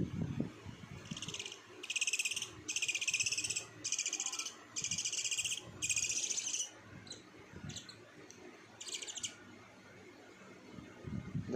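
Scops owl giving a run of raspy, buzzy calls: about six, each just under a second long, then a few shorter ones.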